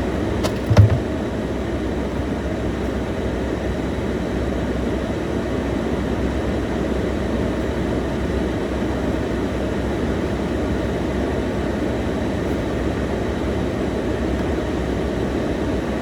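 Steady low rumbling noise, like a running engine or air conditioner, with one short knock just under a second in.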